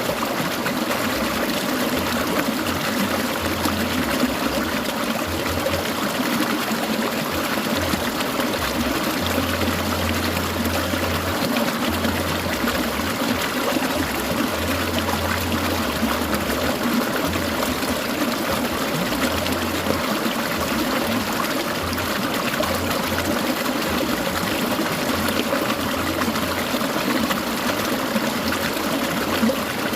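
Clear mountain stream babbling and trickling steadily.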